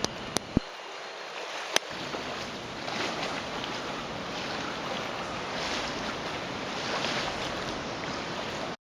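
Steady rushing noise of a flood-swollen river, with wind on the microphone swelling and easing. A few sharp clicks come in the first two seconds.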